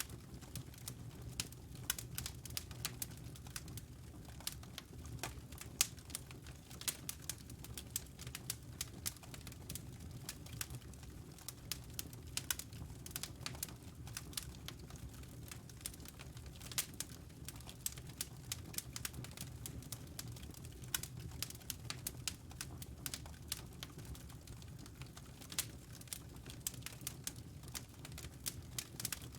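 Fire crackling in a fireplace: many irregular sharp pops and snaps over a low, steady rumble.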